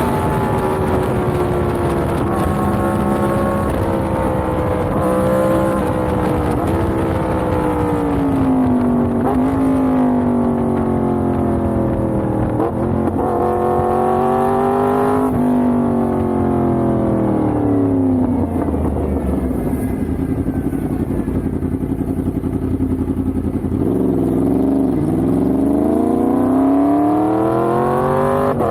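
Yamaha MT-10's crossplane inline-four engine under way, its pitch falling as it slows at first, then rising through the revs in a few climbs with sudden drops between them, easing back down, and climbing again near the end.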